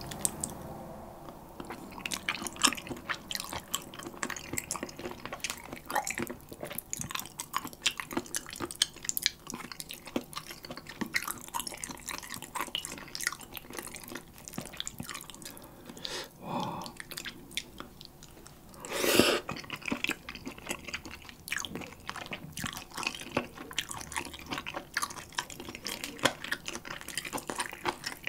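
Close-miked wet chewing of spicy chicken feet: many small sticky, smacking mouth clicks, with one louder burst about two-thirds of the way through.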